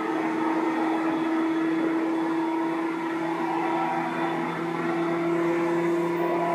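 Seibu 2000 series electric train running, heard from inside the car: a steady running noise with a sustained mid-pitched tone from the drive, and a lower tone that grows stronger near the end.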